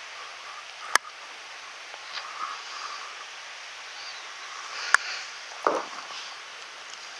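Steady rushing of a mountain stream, with two sharp clicks and a short dull thump partway through.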